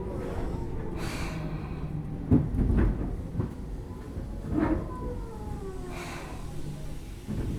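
Tobu 10000 series electric train running, heard from inside a motor car: a steady rumble with the traction motors' whine sliding down in pitch, and a few sharp knocks, the loudest about two and a half seconds in.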